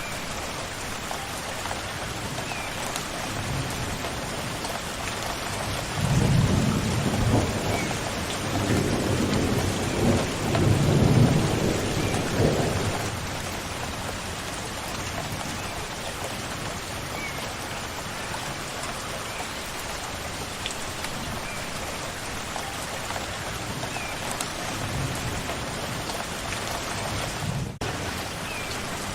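Steady rain falling, with a roll of thunder rumbling low for several seconds near the middle. A few faint, short bird chirps come through the rain.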